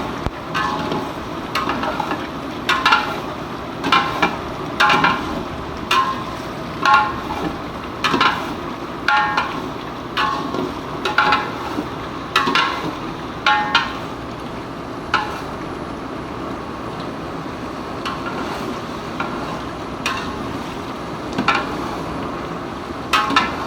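Metal spoon scraping and knocking against a cooking pot about once a second as chicken gizzards are stir-fried, over a steady sizzle. The stirring stops about 15 seconds in, with a couple more strokes near the end.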